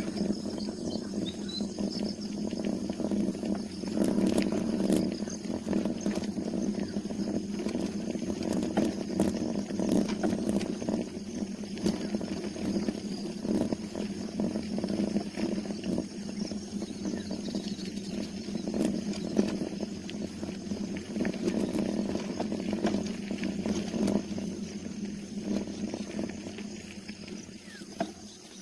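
Steady rumbling noise of wind and road noise while riding a bicycle, rising and falling unevenly throughout.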